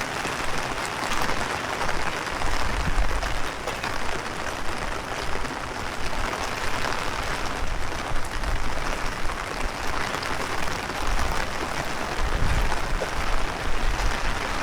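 Heavy rain pattering steadily with a dense hiss. Strong wind gusts buffet the microphone with a low rumble about three seconds in and again near the end.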